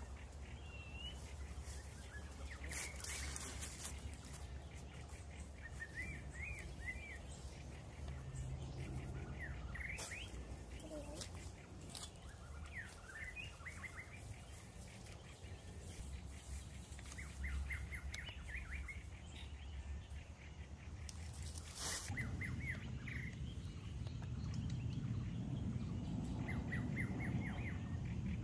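Small birds chirping in short repeated phrases over a low outdoor background, with a few sudden sharp clicks. A low rumbling noise builds up in the last few seconds.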